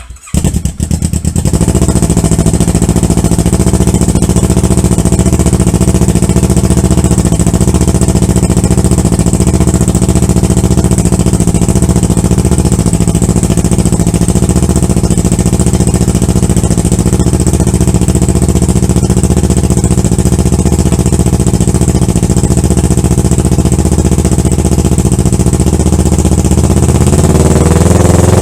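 2014 Kawasaki Ninja 650's parallel-twin engine starting and settling into a steady, loud idle through a custom stainless steel exhaust. Near the end the pitch rises slightly as the revs come up.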